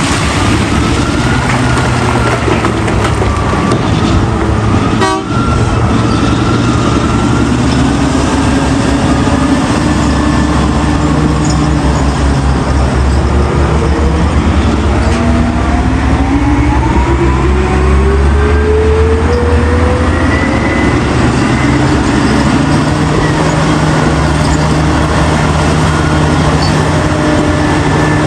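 Heavy diesel earthmoving machinery running under load. The engine pitch climbs steadily over several seconds about halfway through, then holds, and there is a brief break about five seconds in.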